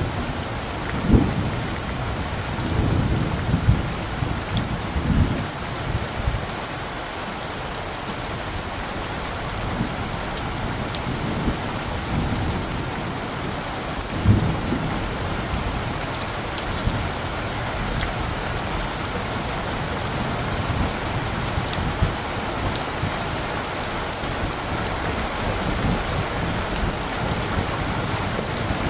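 Steady rain falling, with many fine drop ticks. Light thunder rumbles low in the first few seconds and again about halfway through.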